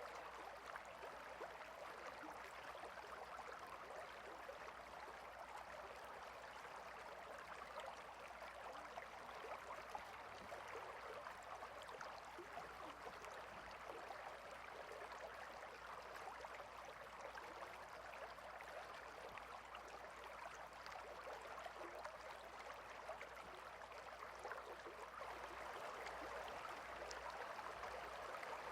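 A small stream flowing with a steady, faint babble of running water, a little stronger near the end.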